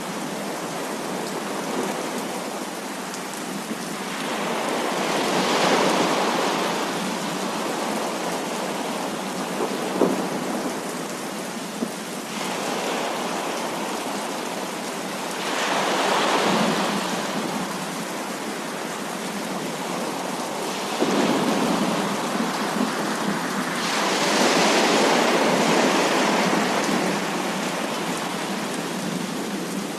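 Heavy rain falling steadily, with thunder rolling in three slow swells that build and fade, and a single sharp crack about ten seconds in.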